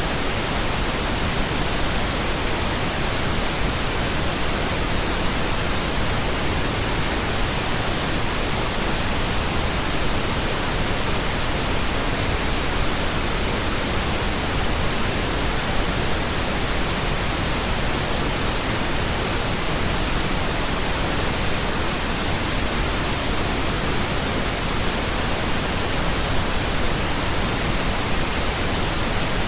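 Steady pink noise: an even, unchanging hiss across the whole range, without breaks or events.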